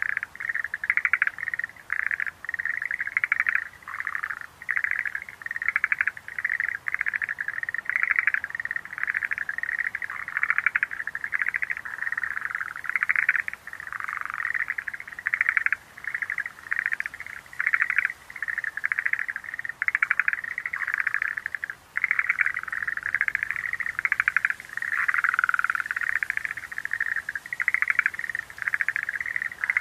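A chorus of Schlegel's green tree frogs calling, rapid pulsed calls following and overlapping one another with hardly a pause.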